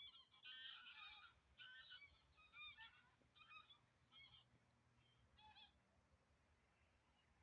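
A flock of geese honking faintly, many calls overlapping at first, then thinning to a few scattered honks that stop a little before the end.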